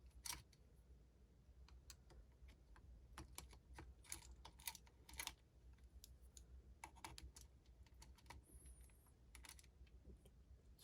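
Faint, irregular light clicks and taps of small engine parts and tools being handled while a camshaft sprocket and cam chain are fitted.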